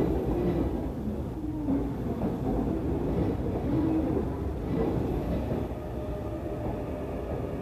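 Hankyu 8300 series electric commuter train running slowly past a station platform, its wheels noisy on the rails; the sound eases off a little toward the end.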